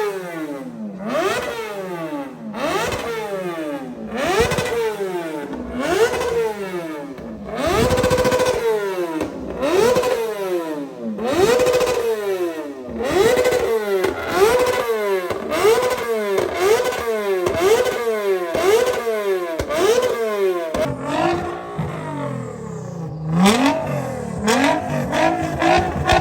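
Suzuki Hayabusa's inline-four engine revved over and over, each rev climbing in pitch and dropping back, coming quicker from about halfway through. Near the end the sharp revs give way to a lower, slower rise in engine pitch.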